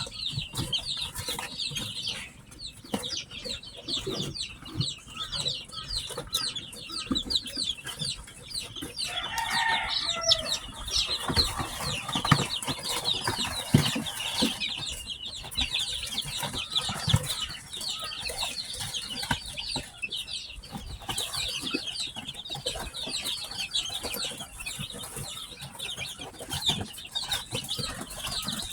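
A brood of newly hatched chicks peeping continuously: many short, high-pitched chirps overlapping, with a lower call about ten seconds in and scattered small knocks.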